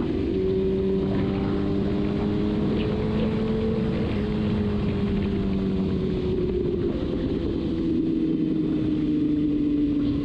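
Kawasaki Ninja ZX-6R inline-four engine running at steady highway speed, with wind rushing past. Its pitch edges up, shifts slightly about four seconds in, then slowly falls as the bike eases off.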